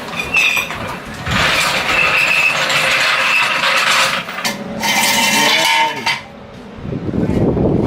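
A car being let down off floor jacks: metal scraping and squealing with clinks, and a creaking squeak with sweeping pitch about five seconds in.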